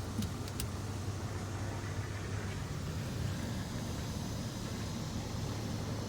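Car engine idling steadily, with two brief clicks in the first second.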